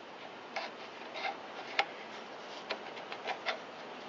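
Scattered light clicks and taps of a small-engine carburetor's metal float bowl and bowl nut being handled and seated on the bowl gasket, about seven at irregular spacing.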